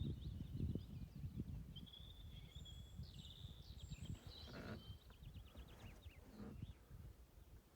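Songbirds singing: rapid chirping trills and a few short whistled notes. Under them runs a faint, low, irregular rumble, loudest in the first couple of seconds.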